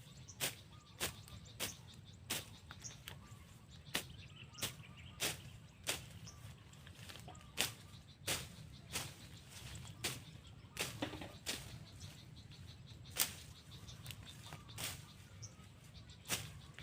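A long run of sharp, short strikes, roughly one or two a second and slightly uneven, like repeated chopping or swishing blows, over a low steady rumble.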